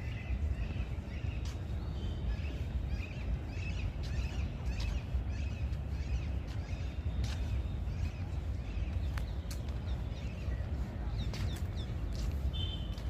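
Birds chirping again and again in short, irregular calls, with a few sharp clicks, over a steady low rumble.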